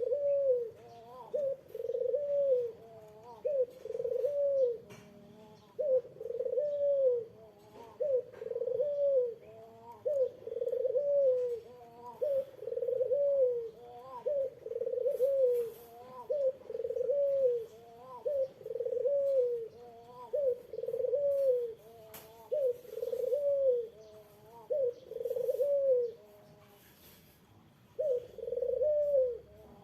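Ringneck dove (Indonesian puter) cooing: a long series of arched coos, about one a second, with a short pause near the end before a final coo.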